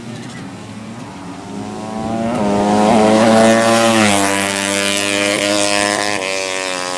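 A 200cc drag-race motorcycle engine held at high revs, growing louder as it approaches and dropping in pitch as it goes past about four seconds in, then running on steadily.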